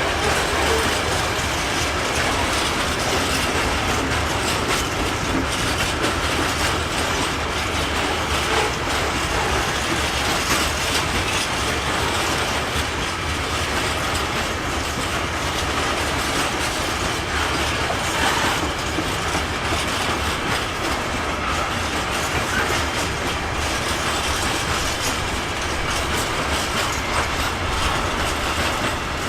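Freight train wagons rolling past at a steady speed: a continuous, even noise of steel wheels on the rails.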